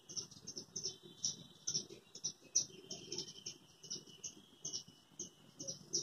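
A small flock of small birds chirping excitedly on a window grille: rapid short, sharp high chirps, several a second, over a faint continuous trill.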